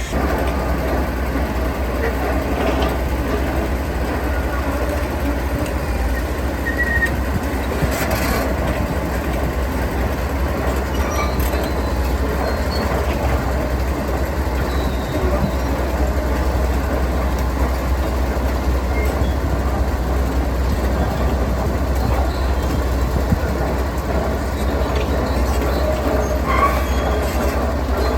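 Heavy diesel construction machinery running steadily at work: a continuous low rumble with some metallic clanking and squealing.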